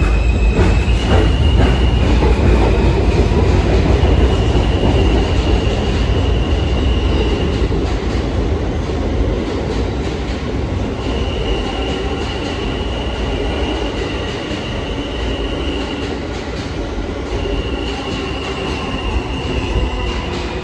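R160 subway train running on the line after leaving the station: a heavy rumble from its wheels on the rails, with a thin high wheel squeal that comes and goes four times. The rumble eases slightly about halfway through.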